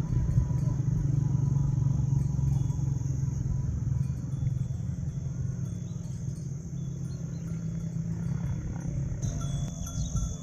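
Insects chirring steadily at a high pitch over a louder, steady low rumble; the chirring grows louder near the end.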